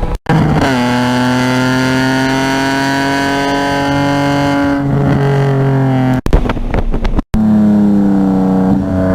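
Race-driven car engine under load, its pitch climbing slowly through the revs during the first half. After a change about five seconds in, the pitch falls away near the end as the car slows. The sound cuts out completely for an instant a couple of times.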